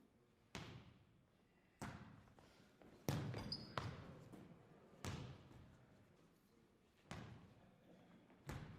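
A series of about seven sharp thuds at irregular intervals, each dying away quickly.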